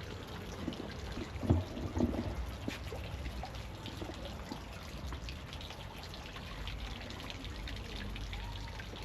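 Water trickling and splashing steadily, as from a small stream or garden water feature, with a brief thump about a second and a half in.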